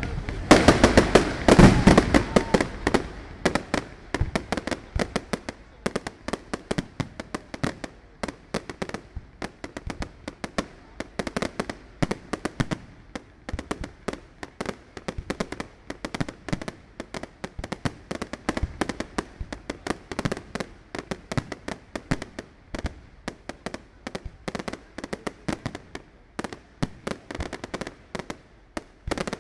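Fireworks display: a loud cluster of bangs from bursting shells in the first few seconds, then a long run of rapid, sharp cracks and crackling from exploding stars.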